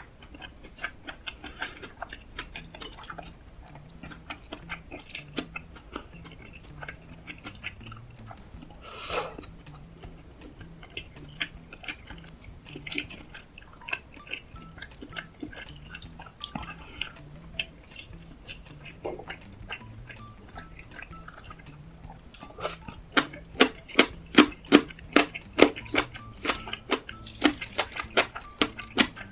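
Close-miked chewing and mouth sounds of someone eating kimchi fried rice with cheese and sausage, with small clicks throughout. A short louder noise comes about nine seconds in, and for the last six seconds the chewing gets louder and rhythmic, about four bites a second.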